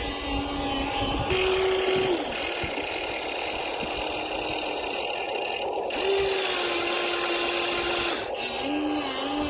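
Small electric motors and gearboxes of radio-controlled Huina excavator toys whining as they are driven. The pitch steps up and drops back several times as the motors speed up and slow down, over a gritty hiss.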